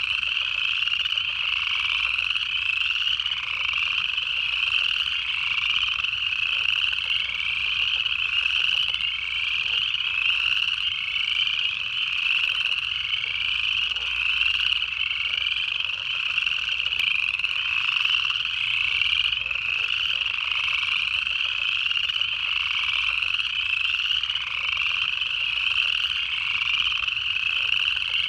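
Dense chorus of upland chorus frogs, their ascending trills overlapping and repeating without a break.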